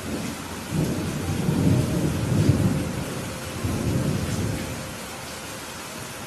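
A thunder roll over steady rain. The deep rumble builds about a second in, swells twice and fades out, while the rain hiss carries on underneath.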